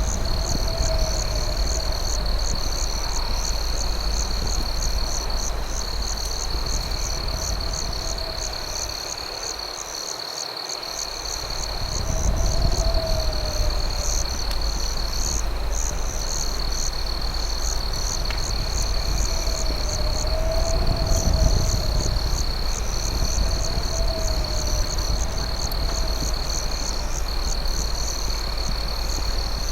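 Night chorus of crickets: a steady high trill with rapid, even chirping above it. A lower wavering call repeats every few seconds, and a constant low rumble runs underneath.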